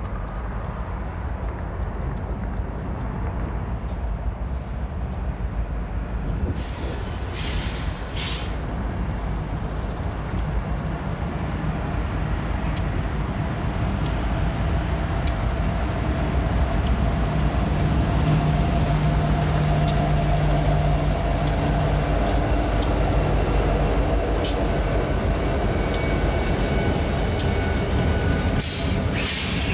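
Diesel freight locomotives rolling past at close range: a steady low engine hum and rumble of rail noise that grows louder as the lead units go by. There are two short bursts of hiss, one about seven seconds in and one near the end.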